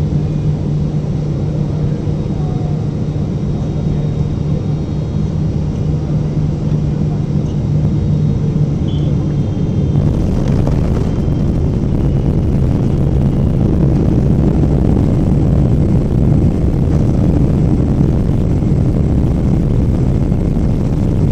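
Cabin noise of a Boeing 777-300ER airliner: a steady drone from its GE90 engines over a low rumble. About ten seconds in, the steady hum fades and a broader, slightly louder rumble with more hiss takes over.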